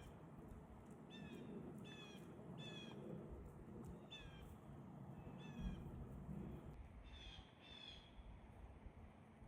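An animal calling in the woods: a series of about eight short, slightly falling calls, faint, coming in pairs and threes, with the last two about a second from the end.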